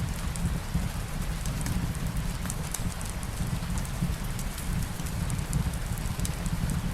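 Rain and wood-fire ambience: steady rain over a low rumble, with scattered small crackles.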